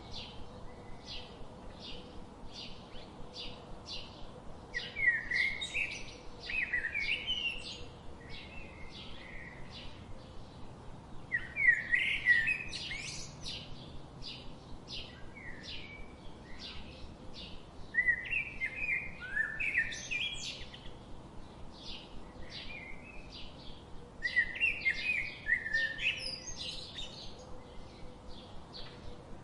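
Birds chirping: a steady series of short, high chirps about two a second, with louder, lower twittering song phrases breaking in every six seconds or so.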